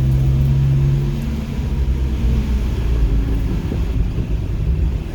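Car engine running steadily under throttle, then the engine note drops away about a second in as the throttle comes off, leaving a rough rumble of tyres and road noise on a wet track.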